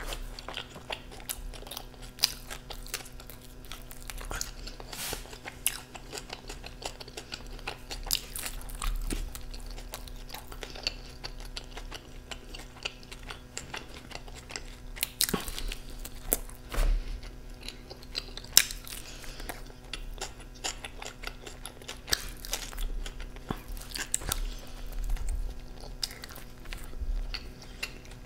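Close-miked eating of pizza: steady chewing with irregular crunchy bites.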